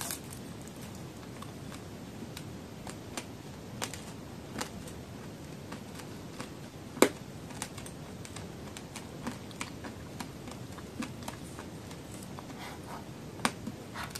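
Close-miked chewing of a hard candy-coated fruit on a stick: scattered sharp crunches and sticky mouth clicks, the loudest about halfway through and another near the end.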